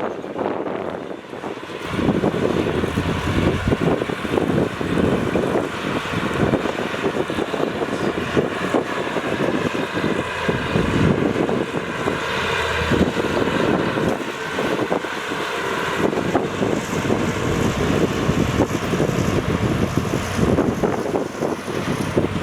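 Heavy diesel earthmoving machinery working, a dump truck or bulldozer engine running under load. It grows louder about two seconds in and stays loud.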